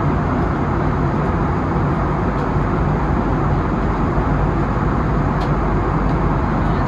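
Steady engine and airflow noise inside the cabin of an Airbus neo airliner, even and unchanging, with a faint tick about five seconds in.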